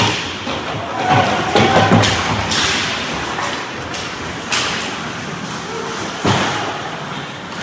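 Ice hockey play at the rink boards: several loud thuds and bangs a second or two apart, over a steady wash of rink noise.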